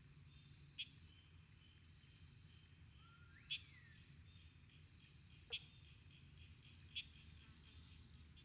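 Four short, sharp bird calls, one with a quick rising-and-falling slur, over a faint, steady high trilling and a low background rumble.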